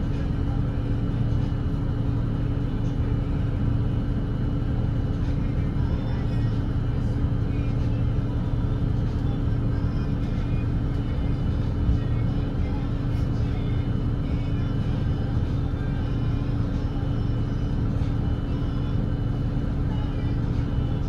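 Volvo B8RLE double-decker diesel bus cruising at a steady pace on an expressway, heard from inside the cabin: a steady low engine drone with road and tyre rumble, the pitch holding even throughout.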